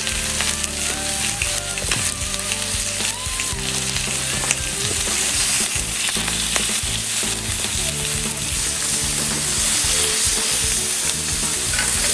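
Pork and atsuage (thick deep-fried tofu) sizzling steadily on a hot plate, with fine crackles and spits.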